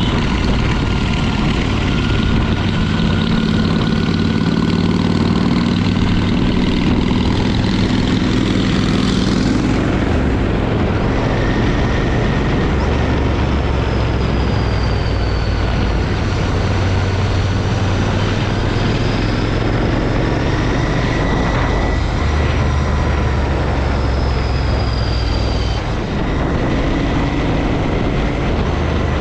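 Harley-Davidson motorcycle engine running under way, its low note shifting in pitch now and then, with a steady rush of noise over it.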